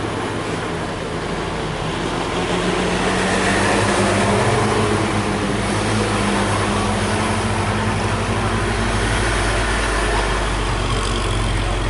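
Heavily loaded truck's diesel engine labouring on a steep uphill climb, growing louder over the first few seconds and then running steadily, with a deep rumble strengthening near the end.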